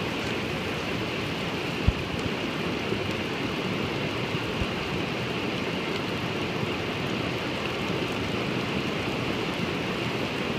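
Heavy rain pouring down in a steady hiss, with a brief thump about two seconds in.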